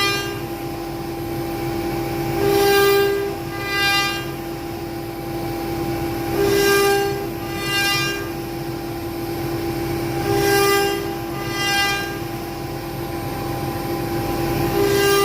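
CNC router engraving wood: a steady high spindle whine, with a pitched motor whine that swells and fades in a regular pattern every three to four seconds, a longer one then a shorter one, as the machine runs back and forth.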